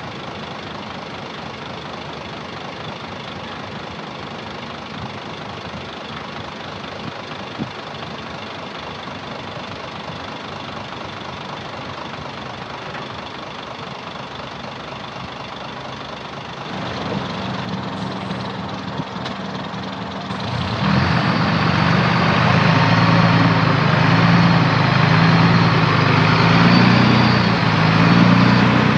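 Heavy diesel machinery engine running steadily. A bit over halfway through it grows louder, and about 21 seconds in it gets louder again, its pitch stepping up and down as it revs and works under load.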